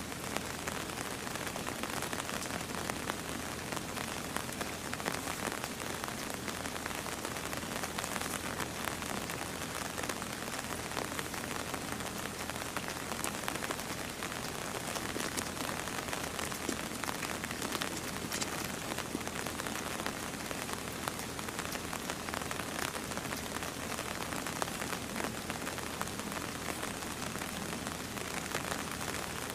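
Steady rain, with the light ticks of individual drops hitting a surface.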